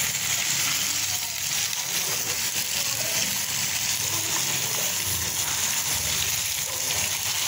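Chicken pieces and whole garlic heads frying in hot ghee over a high flame, giving a steady sizzle.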